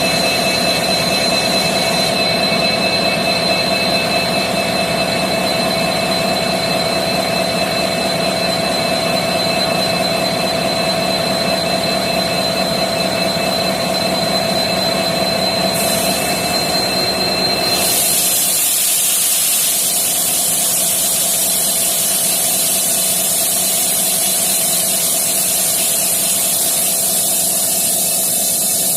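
Diesel engine of a WDG4 (EMD GT46MAC) locomotive running steadily after start-up, with a steady high whine over the engine note. About eighteen seconds in, the engine note fades under a loud steady hiss.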